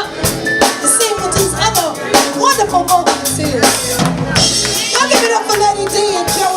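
Live band music: a drum kit with snare and bass drum hits under a bending melody line.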